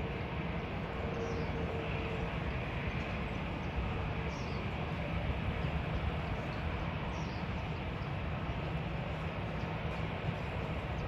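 Steady low rumble of distant jet aircraft noise, with a faint whine that fades away in the first few seconds. A few brief bird chirps sound over it.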